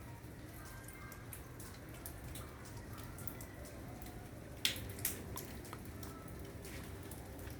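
Rain dripping: scattered drops tapping irregularly, with two louder drips a little past halfway, over a low steady rumble.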